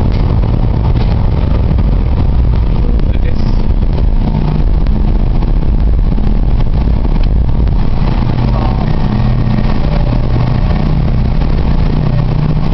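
A ferry's engines running with a loud, steady low rumble and hum.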